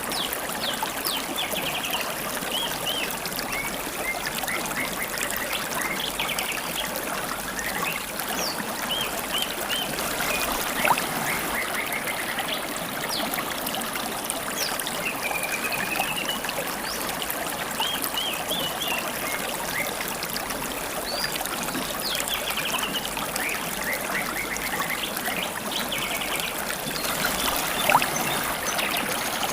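River water babbling and trickling steadily, with wild songbirds chirping in short repeated phrases every few seconds. Twice there is a brief louder tick.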